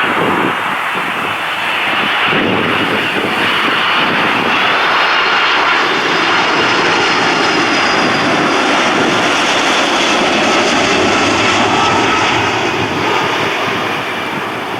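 Airliner jet engines running loud and steady as the aircraft passes, with a faint high whine over a dense rushing noise. The sound eases off slightly near the end.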